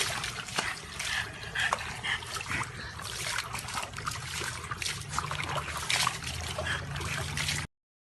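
Water splashing and trickling, with scattered small clicks, cutting off suddenly near the end.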